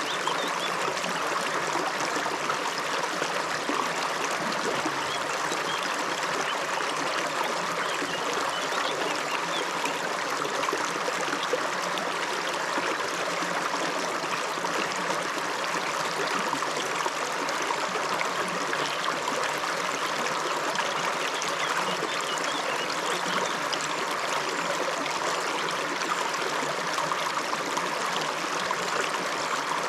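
River water flowing and babbling over its bed, a steady rushing with no change in level.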